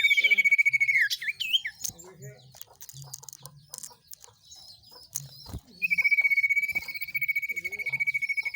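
A songbird's lure call: a long, high trilled note held at one pitch that breaks off into a few falling chirps about a second in, then, after a quieter stretch of faint chirps and clicks, a second long trill of the same kind starting about six seconds in.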